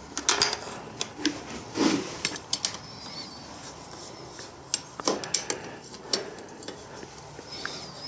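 Scattered light metallic clinks, clicks and knocks of hand tools and small parts being handled while a motorcycle battery is being fitted.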